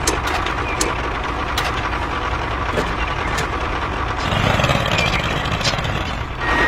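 Engine-like machine drone running steadily, with a few sharp clicks early on the way. It grows louder and heavier for about two seconds near the end.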